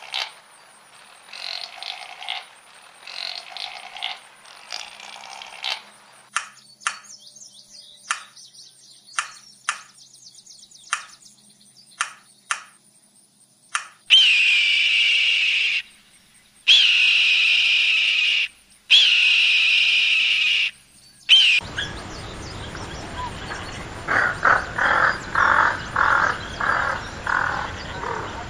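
Wild bird calls in turn: a string of short sharp chirps about one a second, then three long, high whistled calls of about two seconds each, the loudest part. Near the end comes a quick run of short calls over a steady hiss.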